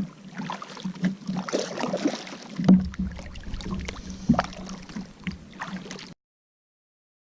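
Kayak on the water: paddle splashes and knocks against the hull come at irregular moments, over a steady low hum. The sound cuts off suddenly about six seconds in.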